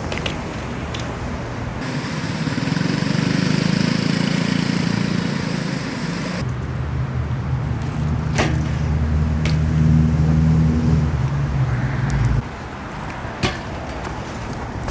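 Motor vehicle engines running in street traffic, a low steady hum that changes abruptly about two, six and twelve seconds in, with a few sharp knocks.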